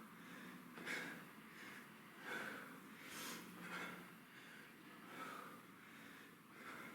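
A man breathing hard through tuck-up sit-ups, a short forceful breath about once a second or so, faint.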